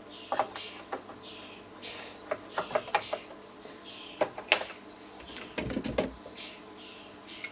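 Clicks and small knocks of metal amplifier parts being handled on the workbench, with a dull thump about six seconds in, over a bird in the background chirping a little under twice a second.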